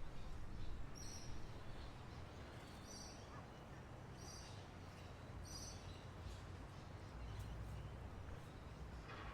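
Birds chirping faintly: a few short high chirps about a second apart, then fainter, quicker ones, over a low steady outdoor rumble.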